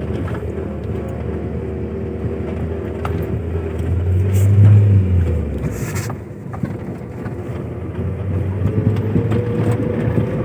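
Car engine and road noise heard from inside the car. The engine note swells about four seconds in, drops away sharply around six seconds, then builds again.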